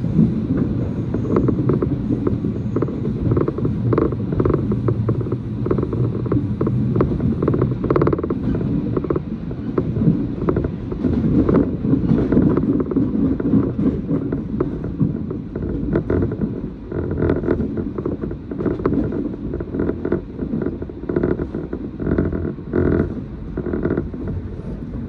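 Running noise heard inside a moving JR train car: a steady low rumble of wheels on the rails, with frequent small clicks and creaks from the car body and fittings.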